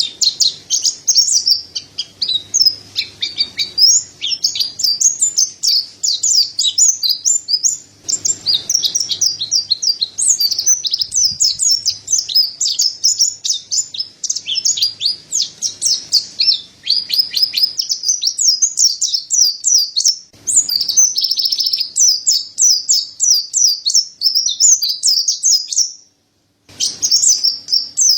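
Mountain white-eye (pleci dada putih) singing a fast, high-pitched twittering song, the chirps running together almost without pause; it stops briefly near the end and then starts again.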